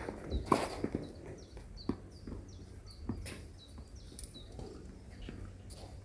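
A small bird chirping repeatedly in short, high, falling notes, about three a second. Scattered knocks and scuffs sound beneath it, the loudest about half a second in.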